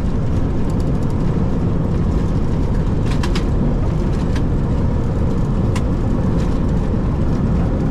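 Boeing 737-800's CFM56-7B engines in reverse thrust during the landing roll, a loud steady roar mixed with runway rumble, heard from the cockpit. A few light clicks about three seconds in and again near six seconds.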